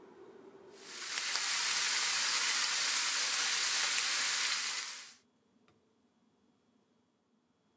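Pork belly rolls wrapped around mizuna sizzling in a frying pan. The sizzle swells in about a second in, holds steady, and cuts off suddenly about four seconds later.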